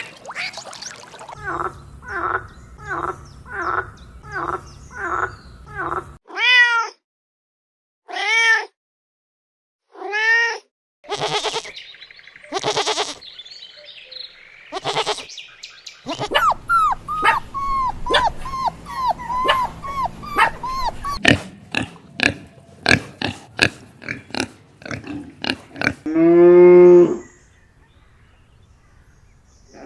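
A string of different farm animal calls, one clip after another. First a quick series of short calls about twice a second, then three drawn-out falling calls like a cat's meows, another quick series of short calls and some clicks. Near the end comes one loud, low cow's moo.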